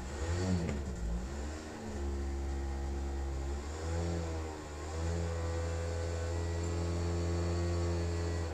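Project motorcycle engine revved in a few quick blips, then running at a steady speed with a brief dip about four and a half seconds in, before cutting off suddenly at the end.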